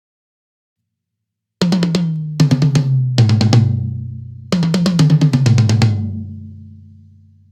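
Drum kit toms on a Yamaha Recording Custom kit, close-miked and recorded raw. After a silent second and a half come two quick fills, each moving down from higher to lower toms. The toms ring on after each fill and fade out near the end.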